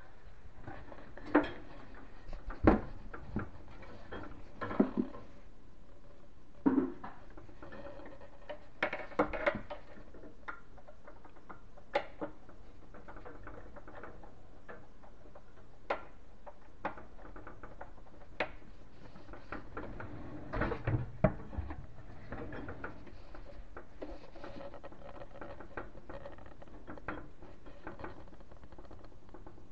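Irregular clicks, knocks and small rattles of hands working on kitchen cabinet hardware, with a few sharper knocks spread through and a cluster of them about two-thirds of the way in.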